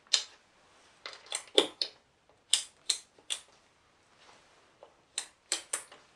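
Hand tools and small parts clicking and knocking as they are handled: about a dozen sharp clicks in clusters of two or three, the loudest about a second and a half in.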